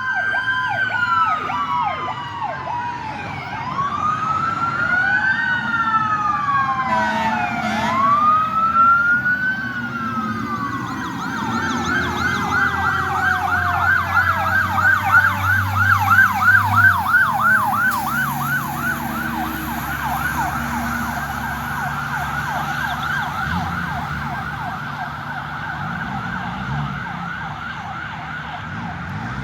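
Sirens of several fire department vehicles responding, overlapping: slow rising and falling wails that switch to a fast yelp about a third of the way in, with a low vehicle engine rumble underneath. The yelp grows fainter toward the end.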